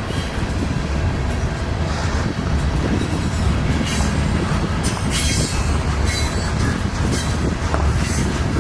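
Norfolk Southern freight train rolling past: a steady heavy rumble of steel wheels on rail, with brief high screeching flares from the wheels recurring about once a second.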